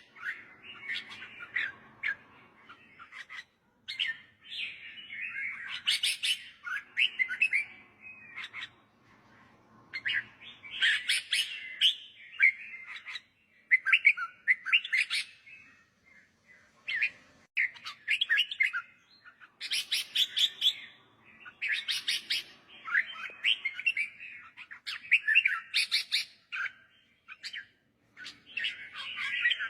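Red-whiskered bulbul singing: short, bright, warbled phrases repeated every second or two with brief pauses. This is teacher-bird song of the kind played to young bulbuls so they learn to copy it.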